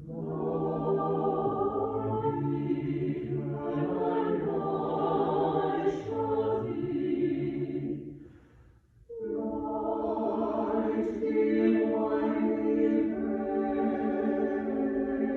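A choir singing long, sustained chords, with a short break between phrases about eight seconds in.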